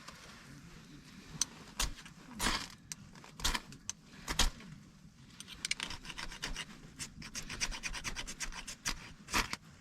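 Repeated rasping scrape strokes as fine, powdery tinder is scraped up to start a fire. There are a few slow strokes first, then quicker ones in the second half.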